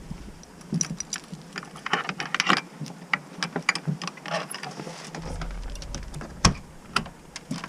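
A key working a door lock: a run of metallic clicks and rattles, with one sharper knock about six and a half seconds in.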